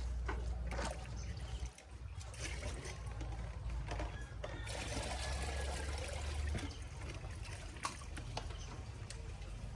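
Water trickling and splashing, with a few sharp clicks and knocks, over a low rumble that stops about six and a half seconds in.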